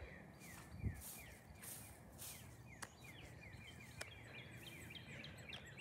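Faint outdoor ambience with birds calling: a steady run of short, downward-sliding chirps, several a second. A dull bump about a second in comes from walking with the phone.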